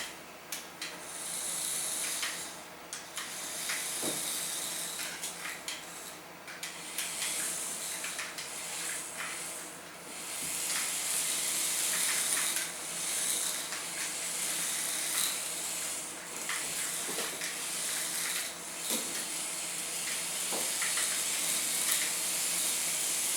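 WL Toys Mini Racer micro RC cars driving about: their tiny electric motors give a high, hissy whir that swells and fades again and again as they speed up and slow down, with scattered small clicks and knocks.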